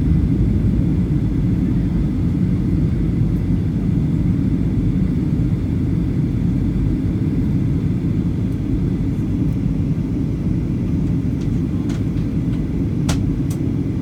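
Steady low rumble of a Boeing 737-800's engines and airflow heard inside the passenger cabin, with a faint high whine above it and a few light clicks near the end.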